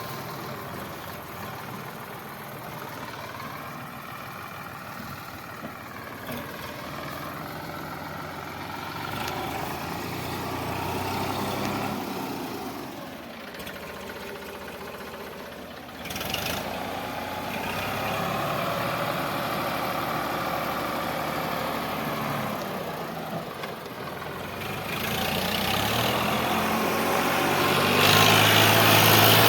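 Sonalika DI 745 tractor's diesel engine running, its pitch rising and falling with the revs. It grows louder over the last few seconds.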